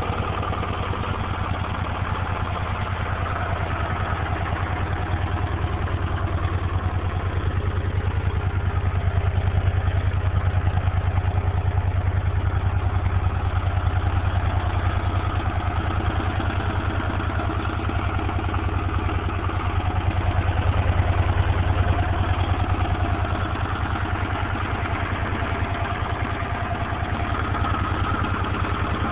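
1980 Honda CX500 Deluxe's liquid-cooled V-twin engine idling steadily, with slight swells in loudness.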